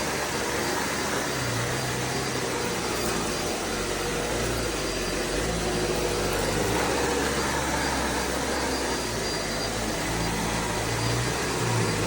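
Eureka WhirlWind bagless canister vacuum cleaner running steadily, a constant rushing motor-and-airflow noise whose low hum shifts now and then as it works.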